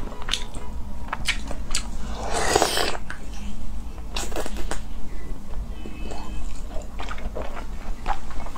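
Close-miked mouth sounds of biting and chewing raw salmon dipped in soy sauce: many short wet clicks and smacks, with two longer rushing sounds about two and a half and four and a half seconds in.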